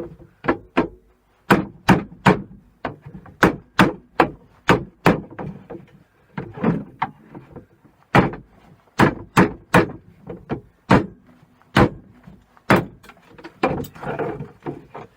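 Hammer blows at an irregular pace, often two or three in quick succession, knocking the crimped plastic tank off an aluminium radiator.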